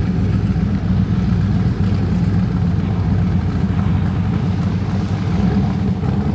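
Steady low engine rumble of a running vehicle, holding an even level without revving.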